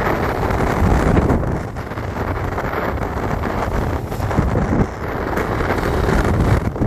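Wind buffeting the microphone: a loud, rough rushing that swells and dips.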